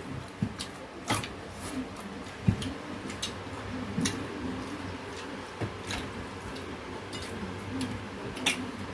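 Sounds of eating at a table: scattered, irregular clicks and taps of utensils against dishes, about half a dozen spread over several seconds.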